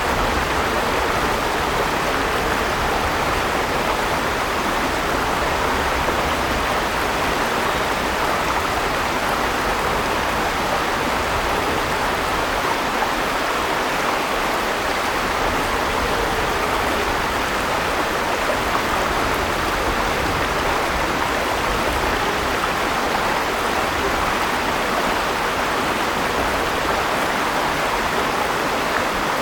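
River water rushing steadily over stones, an even, unbroken rush.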